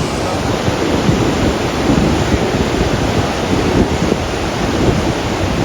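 Strong wind buffeting the microphone: a loud, steady rumbling noise that flutters in gusts.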